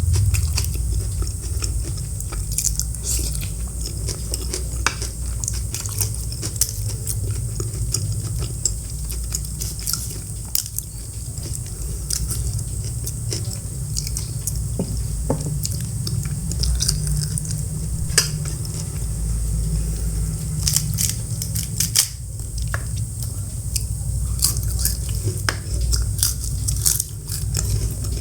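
Close-miked eating sounds: chewing and biting food, with many short sharp clicks and light clinks of tableware, over a steady low hum.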